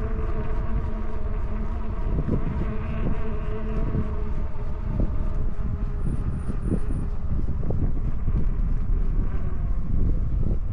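Wind buffeting the microphone on a moving e-bike, over the steady whine of its geared hub motor, which fades away about four seconds in. Four quick high peeps come about six seconds in.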